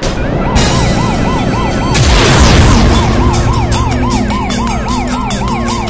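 Siren wailing in quick rising-and-falling sweeps, about three a second, over music with a steady beat that comes in a few seconds in.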